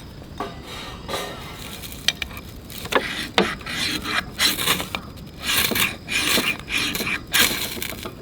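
Rasping, scraping strokes of a tool working wood, coming quicker and louder from about halfway through.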